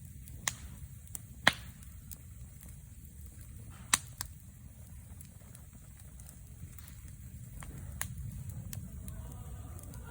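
Wood fire crackling: scattered sharp pops and snaps, the loudest about a second and a half in and again about four seconds in, over a steady low rumble.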